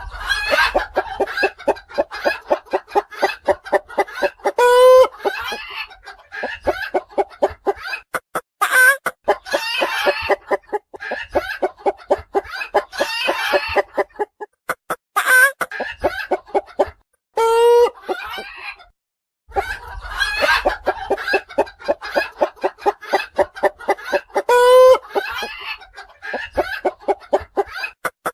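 Hens clucking in quick repeated runs, with a drawn-out cackling note standing out three times, at about 5, 18 and 25 seconds in. The clucking stops briefly twice in the second half.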